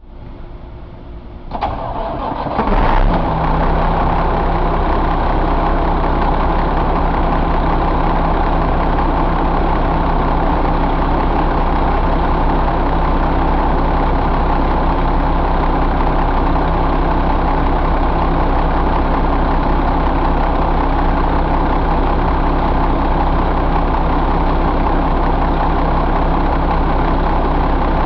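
Mack E7 inline-six diesel engine being cranked by the starter for about a second and a half. It catches, flares briefly, then settles into a steady idle.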